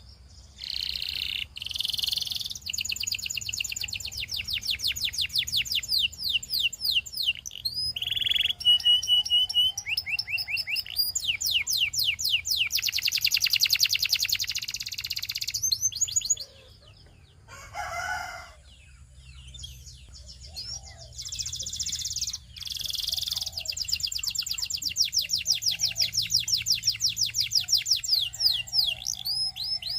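A Belgian singing canary singing long, rapid trills and rolls of quickly repeated notes at changing speeds, the song breaking off for a few seconds past the middle before starting up again.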